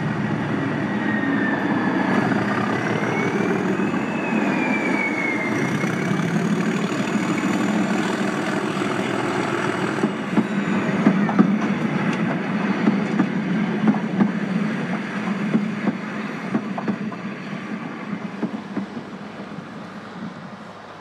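A train running past on the rails, with a high tone rising and falling a few seconds in and wheels clicking over rail joints in the second half, the sound fading away near the end.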